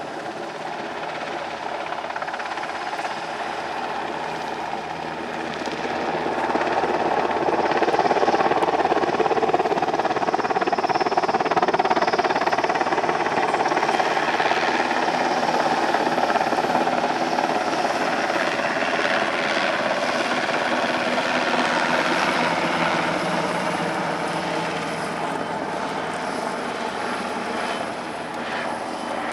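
NH90 twin-engine military helicopter flying its display, its rotor and turbine noise growing louder about a quarter of the way in and easing off again in the last part.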